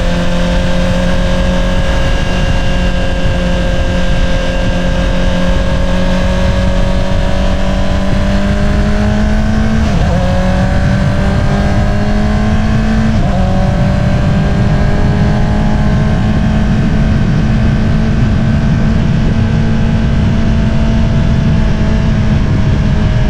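2022 Honda CBR650R inline-four engine running through an Akrapovič single-outlet exhaust, cruising with a steady note that climbs slowly. The engine note changes abruptly about ten seconds in and again about three seconds later, as gears are shifted.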